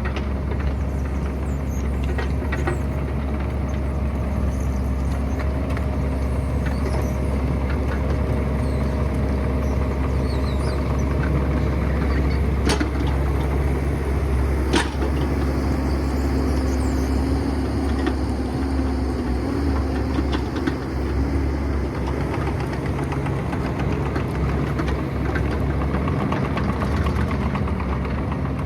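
Excavator's diesel engine running steadily under work, with two sharp knocks about halfway through; a higher hum rises for a few seconds after them.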